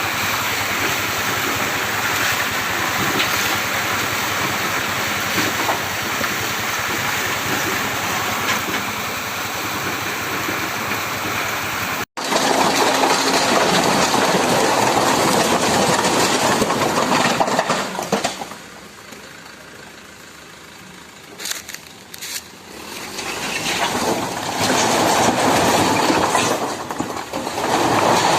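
Dump truck engine running during unloading. There is a steady rushing noise, then an abrupt cut about twelve seconds in, after which the engine sound swells, drops away for a few seconds and rises again near the end.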